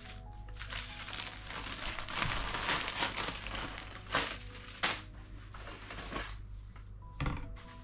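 Packaging being handled and crinkled while shopping is unpacked, with a few sharp knocks as items are set down or moved, over faint background music.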